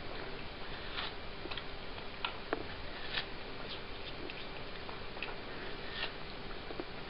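A cat eating watermelon: irregular wet clicks and smacks of chewing and licking, one or two a second, over a faint steady hum.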